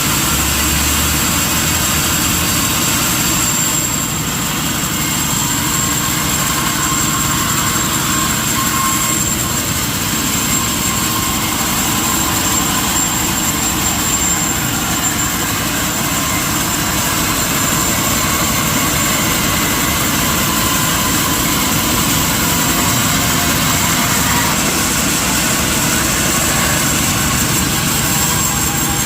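Sawmill machinery running steadily: a dense, constant mechanical noise with a thin high whine held throughout.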